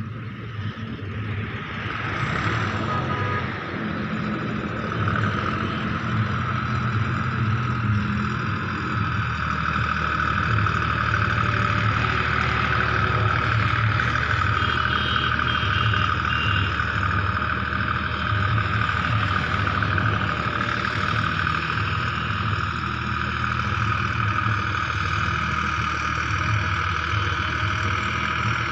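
Deutz-Fahr tractor's diesel engine running steadily, growing a little louder over the first few seconds and then holding level.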